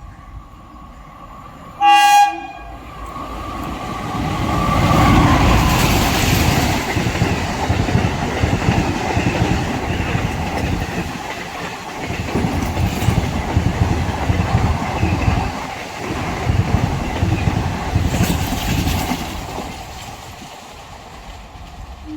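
An express train's horn gives one short, loud blast, then the train passes at high speed with rapid wheel clatter over the rail joints, swelling a few seconds in and fading near the end.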